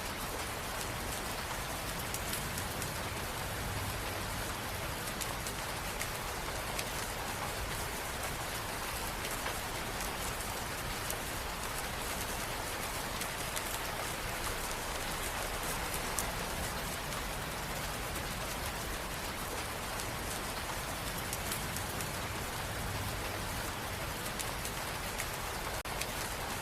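Steady rain falling, with a constant hiss and scattered drops pattering on a surface.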